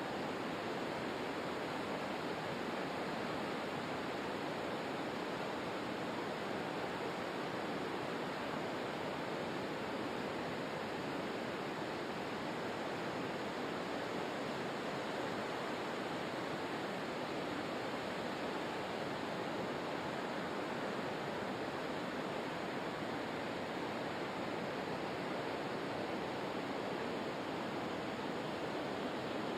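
Steady rushing water, an even roar with no swells, breaks or separate splashes.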